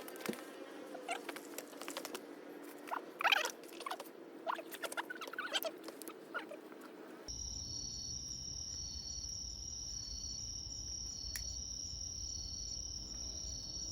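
Irregular light crackling and rustling clicks for about seven seconds. These cut off suddenly and give way to a steady high-pitched insect chorus with a regularly pulsing call over a low rumble.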